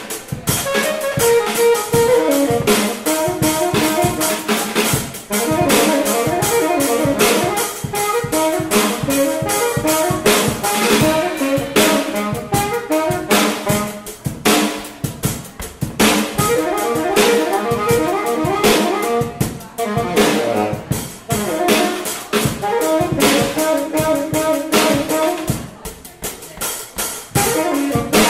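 Small jazz band playing: a horn carries a busy melodic line over a drum kit with bass drum and rimshots.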